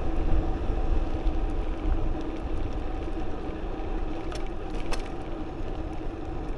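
Wind rumbling on the microphone with the road noise of a bicycle riding along, under a steady hum. There are a couple of short clicks about four and five seconds in.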